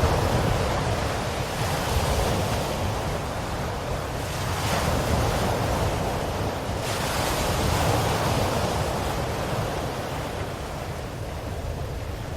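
Ocean surf: waves breaking and washing in, swelling three times and easing a little near the end.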